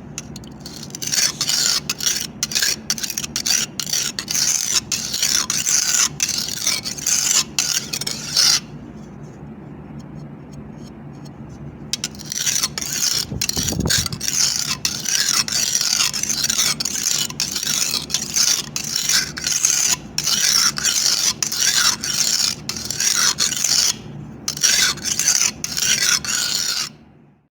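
A knife blade being sharpened: repeated quick scraping strokes of steel against a sharpening surface, a few strokes a second. The strokes pause for a few seconds about a third of the way in, then resume.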